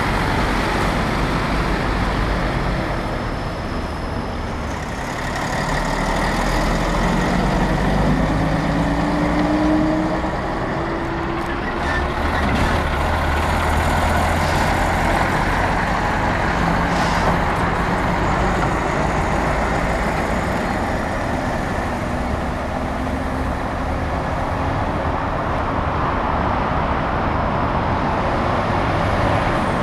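Heavy diesel trucks driving past, engines rumbling, with rising revs as one pulls away about a quarter of the way in.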